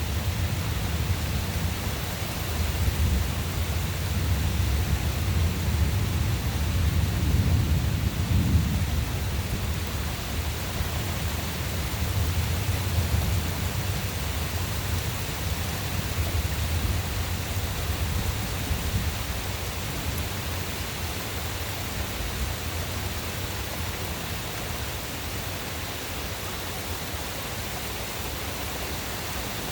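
Thunder rumbling long and low, swelling to its loudest about eight seconds in and dying away by the middle, over a steady hiss of rain.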